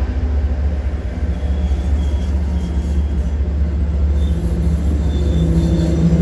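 Diesel train running past the station platform with a steady, loud low rumble; its engine tone grows stronger near the end.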